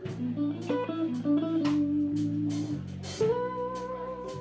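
A live blues trio playing: electric guitar fills over bass and drums, with the guitar holding one long note from about three seconds in.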